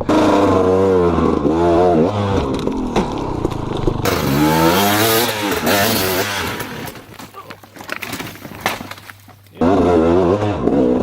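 Small off-road vehicle engine revving hard, its pitch swinging up and down again and again. The sound changes abruptly about four seconds in and drops away for a couple of seconds with scattered clicks, then the loud revving returns near the end.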